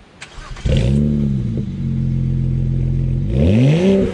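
Car engine starting: it catches with a flare that falls back to a steady idle, then a single quick throttle blip near the end.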